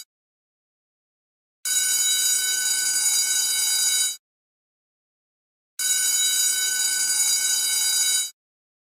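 School bell ringing in two bursts of about two and a half seconds each, with dead silence between them.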